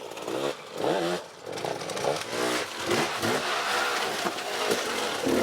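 Off-road motorcycle engine revving up and falling back again and again, the pitch rising and dropping in quick swoops.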